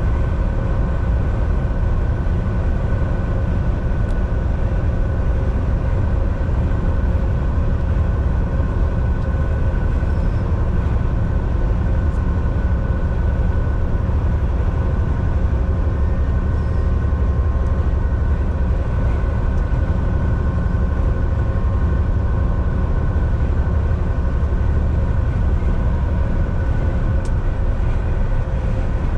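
Volvo VNL 760 semi truck cruising at highway speed, heard from inside the cab: a steady low engine drone and road noise with a faint steady whine above it.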